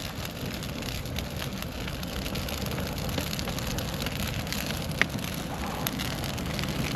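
Bonfire of cardboard boxes and dried-out pine Christmas trees burning: a steady rush with many small crackles and one sharp pop about five seconds in.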